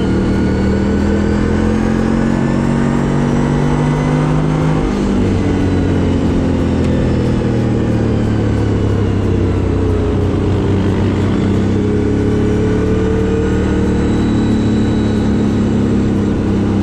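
CFMoto CForce 1000 ATV's V-twin engine running under way, with its pitch stepping down about five seconds in as the revs change.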